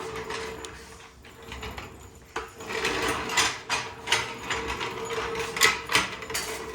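A faint steady hum, then from about two seconds in a run of sharp metallic clicks and clanks, as of tools and metal parts being handled.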